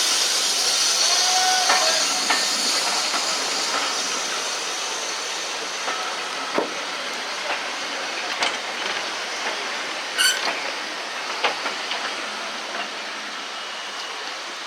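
Steam locomotive, a GWR Large Prairie 2-6-2 tank engine, hissing steam as the train moves, with scattered clanks and knocks from the train. The hiss slowly fades away.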